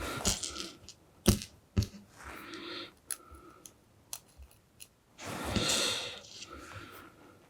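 Small clicks and rustling from handling LEDs and pushing their legs into a circuit board: two sharp clicks early on, then a longer rustle about five seconds in.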